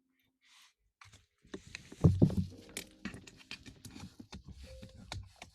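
Close-miked rustling and crackling: near silence at first, then a dense run of small clicks and rustles from about a second and a half in, with a heavy thump just after two seconds.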